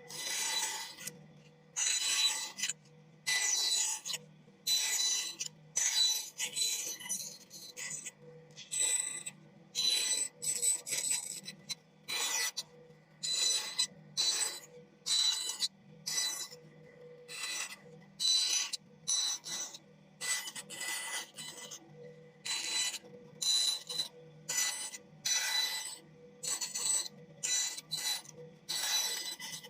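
A blade cutting into wood in repeated scraping strokes, each under a second long, coming about once a second; some strokes carry a thin ringing tone.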